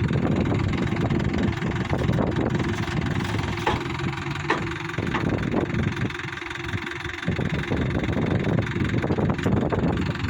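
Tractor engine running steadily, easing off briefly about two-thirds of the way through.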